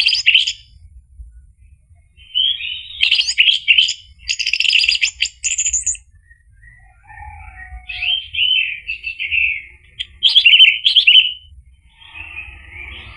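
Orange-headed thrush singing in short, varied phrases of quick whistled notes and trills, broken by brief pauses, with a buzzy chatter starting near the end.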